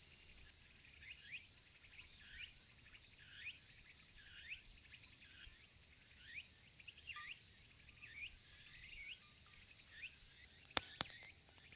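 Summer outdoor ambience: a steady high insect hiss with repeated short chirps about once or twice a second. A few sharp clicks come near the end.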